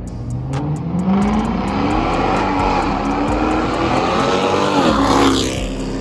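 Dodge Charger R/T's 5.7-litre Hemi V8 on a full straight-pipe exhaust, with no mufflers, resonators or catalytic converters, accelerating past. Its pitch climbs as it revs up, is loudest a little after five seconds in, then drops sharply as it goes by.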